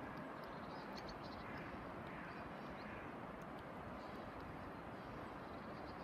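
Faint, short high chirps of small birds at the feeders, scattered over a steady low background rumble.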